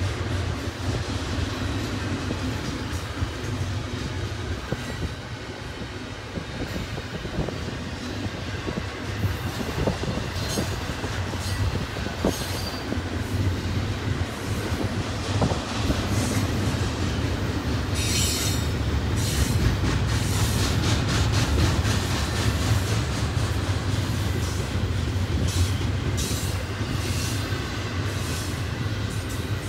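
Double-stack intermodal freight train's well cars rolling past: a steady low rumble of steel wheels on rail, with clicks as the wheels cross rail joints and short high-pitched wheel squeals in the second half.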